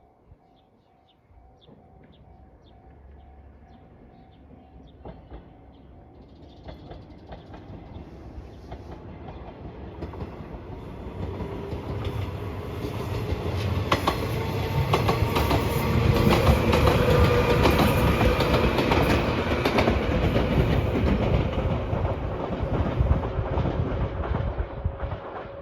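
An electric passenger train approaching and passing a level crossing, its rumble and wheel clatter over the rail joints building to a peak about two-thirds through, then slowly fading. At first a level-crossing alarm rings faintly, about twice a second.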